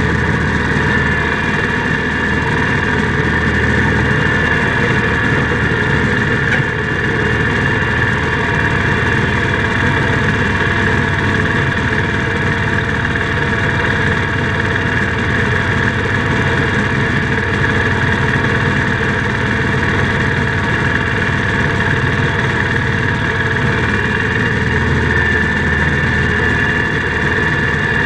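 IH Cub Cadet 147 garden tractor's single-cylinder Kohler engine running at a steady speed.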